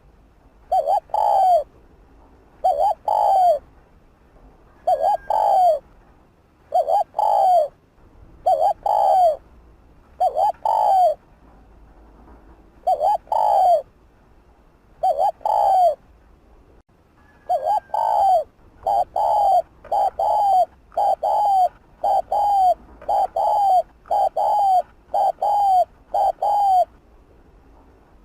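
Spotted dove cooing: short, falling coo notes in pairs, spaced about two seconds apart, then coming faster and more evenly for the last part before stopping near the end.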